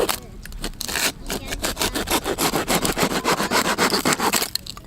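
A handsaw cutting through firewood in quick, rasping strokes. It breaks off briefly about a second in, then keeps going and stops shortly before the end.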